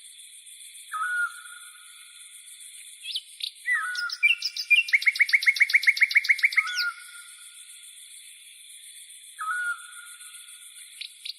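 Songbirds calling: short whistled calls that drop and level off, repeated every few seconds, and a fast trill of about a dozen rapid notes in the middle, over a steady high-pitched background sound.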